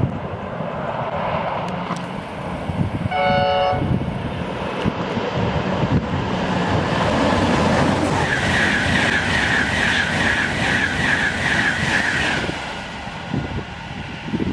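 A Virgin Trains East Coast express train sounds one short horn blast, then runs through the station at speed. Its loud rushing rises, peaks with a high pulsing note while the coaches go by, and fades away near the end.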